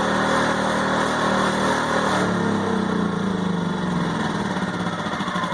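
WEN 2350-watt inverter generator's small engine running loud and steady, then shut off about two seconds in, its pitch falling steadily as the engine spins down.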